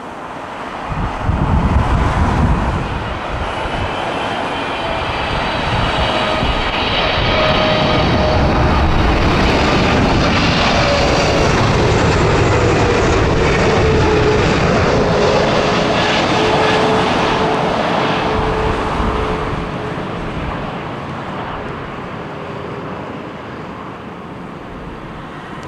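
Wide-body Boeing jet airliner flying past on approach, its engine noise swelling to a peak in the middle and then fading, with a whine that slides slowly down in pitch. Wind buffets the microphone near the start.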